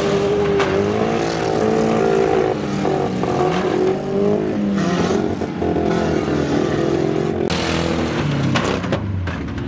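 Several banger-racing cars' engines revving, their pitches rising and falling as they race around a dirt oval, with a few sharp knocks over the engine noise.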